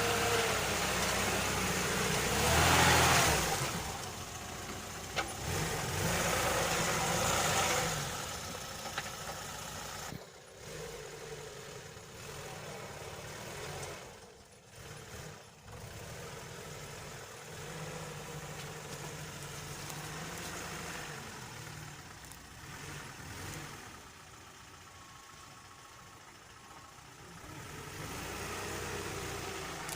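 Lada Niva engine running off-road, revving up loudly twice in the first eight seconds and then settling to a lower, steadier run.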